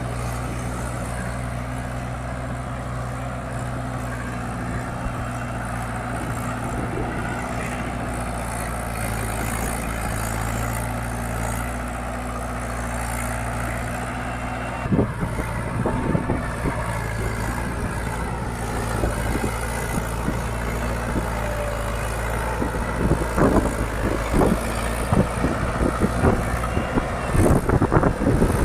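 Mahindra 575 DI XP Plus tractor's four-cylinder diesel engine running steadily. From about halfway through, irregular sharp knocks and clatter come in and grow more frequent and louder toward the end.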